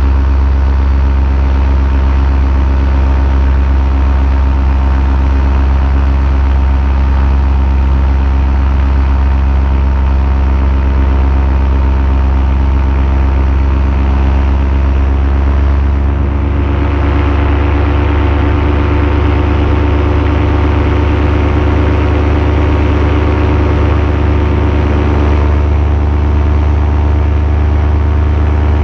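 Paramotor engine and propeller running steadily in flight. About halfway through, the engine note shifts and grows brighter, as with a change of throttle.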